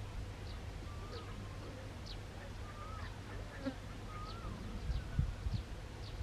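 High, short chirps that fall in pitch, repeating about twice a second, with three lower wavering calls mixed in, over a low rumble.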